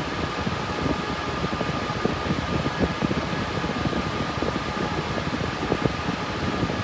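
Cooling fans of a GPU mining rig with RTX 3060 Ti cards running steadily: an even rush of air with a thin steady whine and an uneven low flutter.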